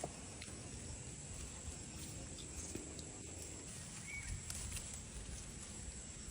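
Faint outdoor ambience with a low rumble, a thin steady high tone, a few soft ticks and rustles, and one short faint chirp about four seconds in.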